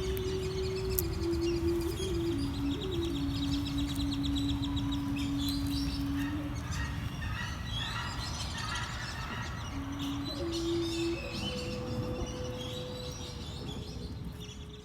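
Birds chirping and trilling in a busy chorus over slow, held low notes that change pitch every second or two, fading out near the end.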